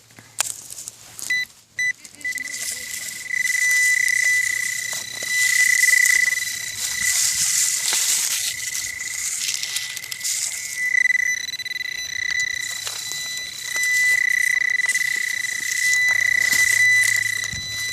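Garrett Pro-Pointer pinpointer giving a continuous high-pitched alarm tone, wavering and breaking off briefly now and then. The pinpointer is overloaded by the many bullets in the ground around it. A steady hiss lies under the tone.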